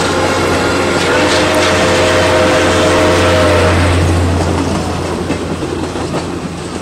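Passenger cars rolling over a grade crossing with wheel clatter. The chime whistle of ex-Nickel Plate 2-8-4 steam locomotive #765, up ahead of the train, sounds one long blast of about three seconds starting a second in. The rolling noise fades as the last car clears.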